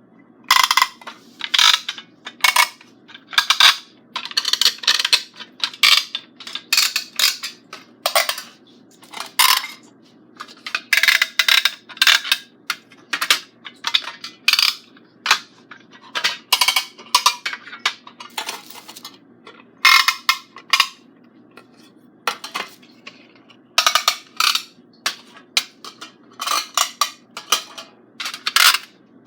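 Small toy sound makers played one after another: a long run of short, tinny, high-pitched sounds in quick irregular succession, with no low end.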